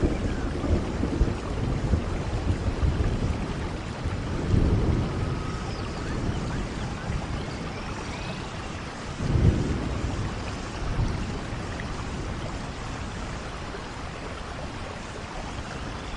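Steady rain falling in a rainforest, with low rumbles of thunder swelling twice, the louder one about nine seconds in.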